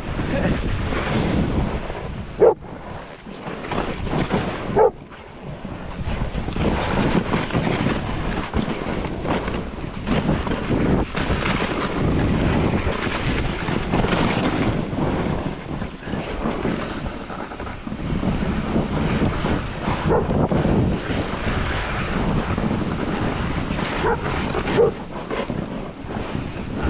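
Wind buffeting the microphone over the hiss of snowboards sliding on snow. A dog barks briefly a few times: about two and a half and five seconds in, and again near the end.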